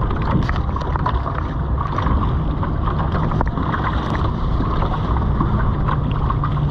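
Wind buffeting the microphone over water washing along the hull of a small sailboat under sail, with scattered light splashes and ticks.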